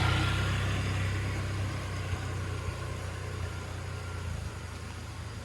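A motor vehicle's engine running with a steady low hum that fades away over a few seconds, as of a vehicle moving off.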